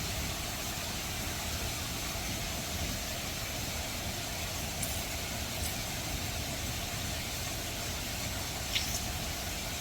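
Steady rush of a waterfall, with a couple of faint clicks near the middle and end.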